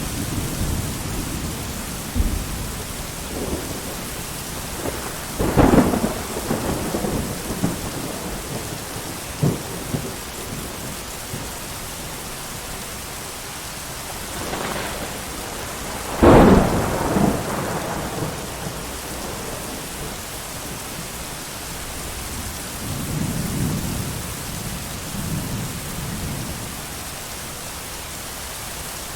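Steady heavy rain with thunder. A sharp thunderclap about six seconds in and a louder one about sixteen seconds in each roll off into rumbling, and a softer low rumble comes near the end.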